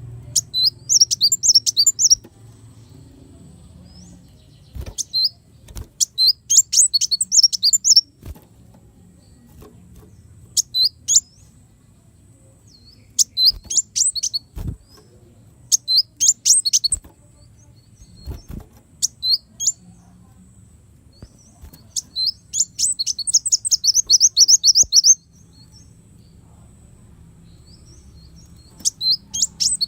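Kolibri wulung sunbird singing in bursts of rapid, high, thin chirps, with short pauses between phrases. Near the end comes a long, fast trill of even chirps.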